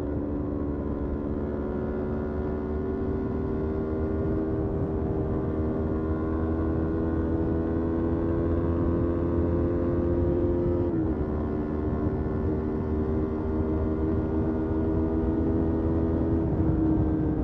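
Motorcycle engine under way, its pitch climbing slowly through a gear, then dropping sharply at an upshift about eleven seconds in and again near the end, over a steady low rumble.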